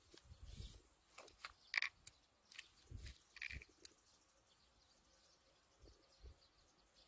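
Faint outdoor quiet with a few short bird chirps, the clearest about two seconds in and another about three and a half seconds in, and a few soft low thumps.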